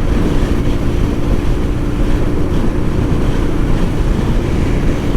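Motorcycle, likely a Honda Transalp, cruising at a steady speed: the engine's even drone mixed with wind rush over the microphone.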